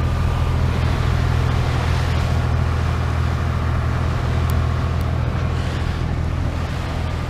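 Sailboat's engine running at a steady low hum while under way, with wind and water noise over it.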